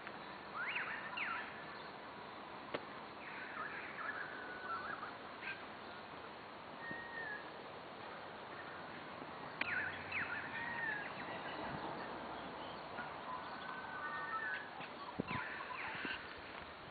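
Birds calling in spring: clusters of sharp, steeply sweeping notes come every few seconds, with short whistled notes in between.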